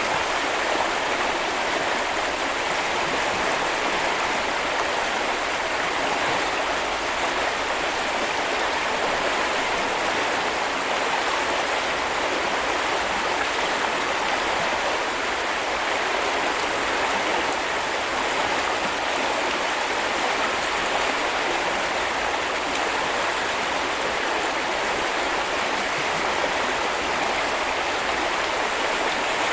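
Small river rushing and babbling over stones, a steady flow of water noise.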